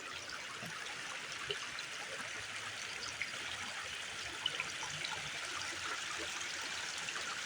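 Small stream flowing over rocks: a steady babbling and trickling of running water.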